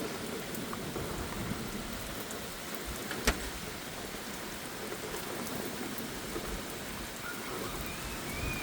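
Steady rain falling in a thunderstorm, with one sharp tap about three seconds in.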